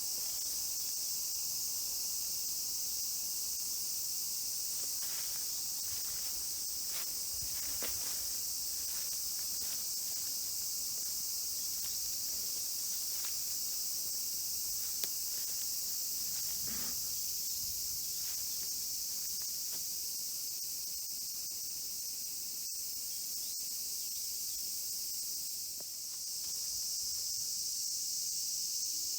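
Steady, high-pitched chorus of summer insects that dips briefly near the end, with a few faint ticks and rustles.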